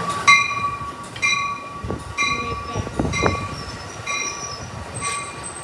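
A warning bell striking about once a second, each stroke ringing on briefly, as an Amtrak train arrives. A low rail rumble swells in the middle.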